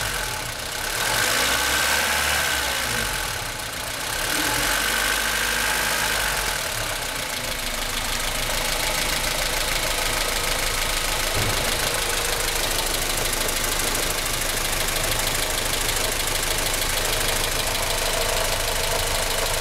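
Honda Civic's D16Y4 four-cylinder engine running steadily, with the weird rattling, clunking noise that comes from the top right-hand corner of the engine, a fault the owner has not yet traced. A thin high whine fades out about six seconds in.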